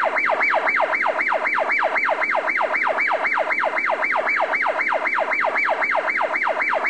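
Electronic emergency-vehicle siren on a fast yelp, its pitch sweeping up and down about four to five times a second.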